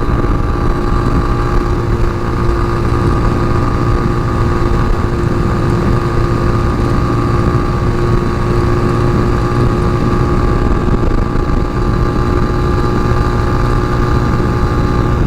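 Tao Motor TBR7 dual-sport motorcycle's single-cylinder engine running at a steady cruising speed, holding one even pitch, with low wind rumble on the helmet-mounted microphone.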